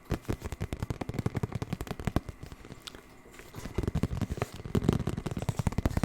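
Rapid, dense tapping close to the microphone, many quick taps a second, lighter and sparser for a moment about halfway through, then busier and louder again.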